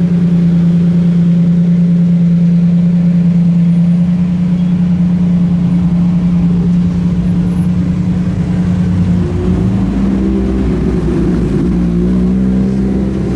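Car engine running at a steady idle with a strong low drone. About nine seconds in, the note turns uneven and shifting, with more low rumble, as the engine is worked or a second engine comes in.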